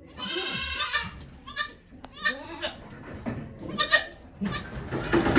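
Goat bleating: one long bleat lasting about a second at the start, then a few shorter calls.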